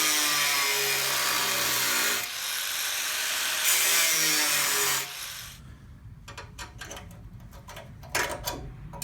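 Angle grinder cutting a section of rusted steel out of a Land Rover chassis rail, its motor pitch wavering under load, with a brief dip about two seconds in. It stops about five seconds in, leaving a few light metallic clicks and knocks.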